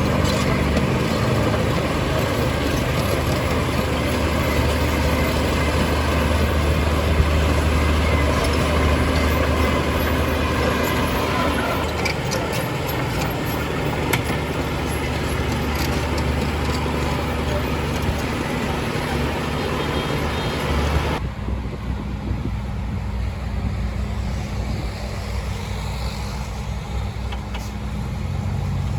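Heavy diesel earthmoving machinery running: a steady, loud engine drone. About two-thirds of the way through, the sound changes abruptly, losing most of its upper noise while the low engine drone continues.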